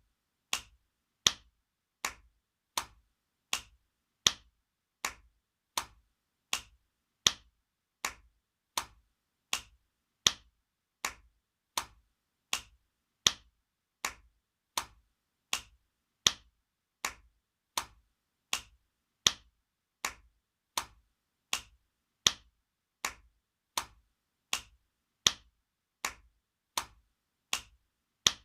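Spanking sound effect: an open hand smacking skin, a sharp smack repeated at an even pace of about four every three seconds, some strikes louder than others.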